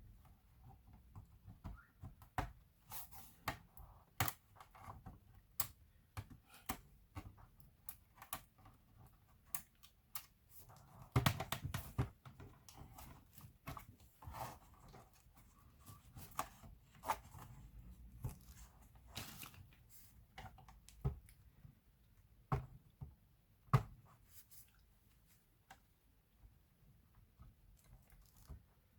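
Irregular small clicks, taps and light scraping of hands and tools working on a laptop's plastic case and parts during disassembly. There is a busier burst of handling noise about eleven seconds in.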